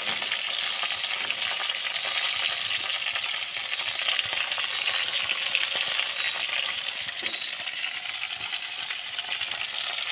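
Chicken pieces frying in hot oil in a wok: a steady sizzle full of fine crackles.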